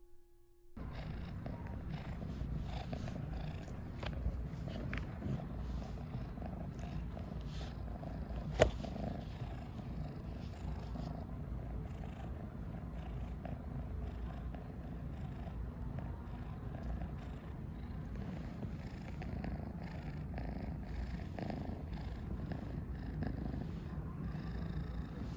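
Domestic cat purring steadily, starting about a second in, with one sharp tap about a third of the way through.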